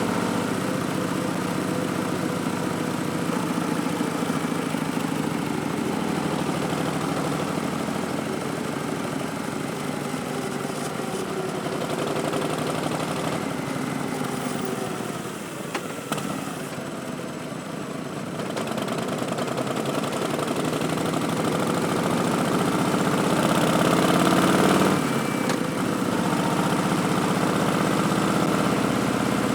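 Harley-Davidson Street Bob's Milwaukee-Eight 107 V-twin running through Vance & Hines Twin Slash slip-on mufflers while riding. It eases off and goes quieter a little past halfway, then revs up in a rising pitch, drops sharply at a gearshift, and carries on steadily.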